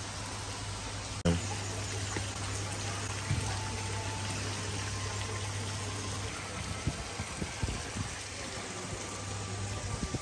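Water churning steadily, with a low hum underneath. There is one sharp click about a second in and a few soft knocks near the end.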